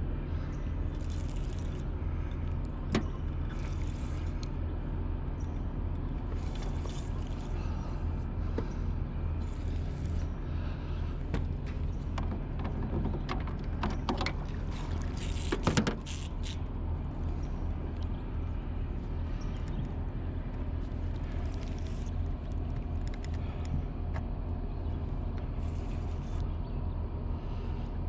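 Boat motor running steadily at low speed, with short hissing swishes every second or two and a brief louder, noisy clatter about halfway through.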